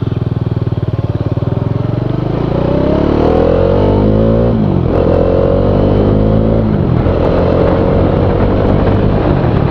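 Bajaj Dominar 400's 373 cc single-cylinder four-stroke engine accelerating hard from walking pace, its pitch climbing in each gear and dropping at upshifts about four and a half and six and a half seconds in.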